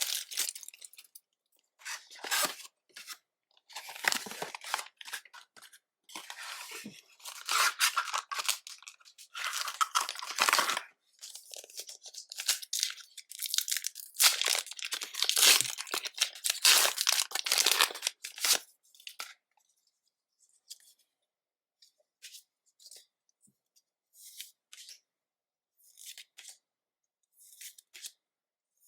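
Foil Pokémon card booster pack wrappers being torn open and crinkled by hand in a small room. For about the last ten seconds this gives way to a scatter of short, soft flicks of handling.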